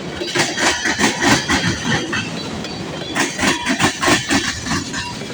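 Long freight train's cars rolling past, their wheels clicking over the rail joints in clusters over a steady rumble, with a faint wheel squeal.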